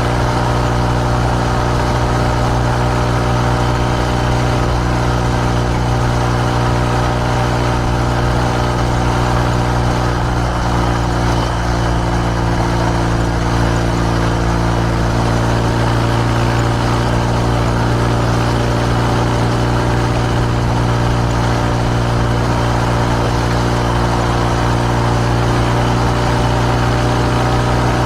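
Kawasaki W650's air-cooled parallel-twin engine heard through an R's Gear Wyvern Classic aftermarket muffler, running steadily at an even pitch.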